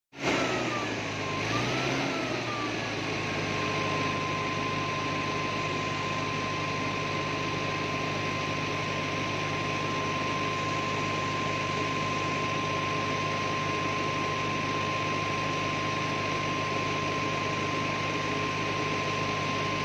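Truck engine running, its pitch falling over the first couple of seconds and then holding steady.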